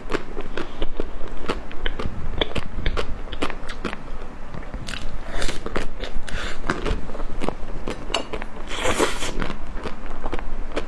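Close-miked eating: crisp bites and crunchy chewing, a dense run of sharp crackles with a couple of louder crunches, one about halfway through and one near the end.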